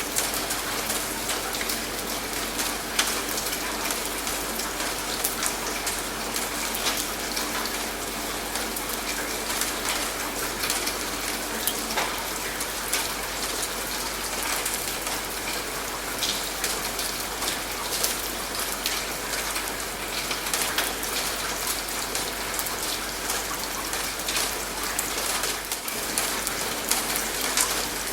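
Steady rain falling, with many small, sharp drop hits ticking over an even hiss.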